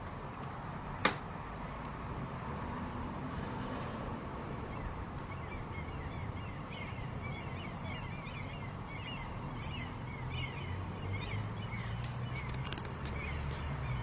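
A single sharp click about a second in, then from about five seconds on many quick, high chirping bird calls over a steady low rumble.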